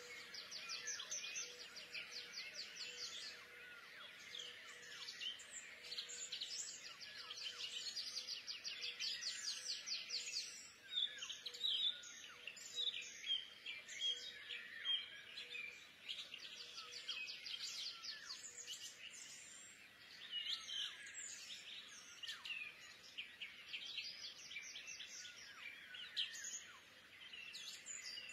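Small birds chirping and singing in rapid, high trills, in runs broken by short pauses.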